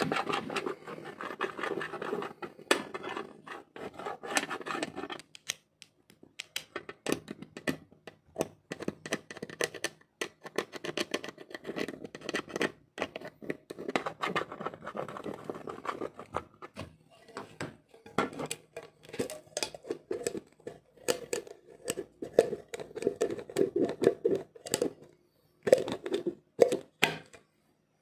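Hands working on an A456U laptop's plastic case and internal parts during a battery replacement: irregular clicks, scratches and scrapes, with short pauses.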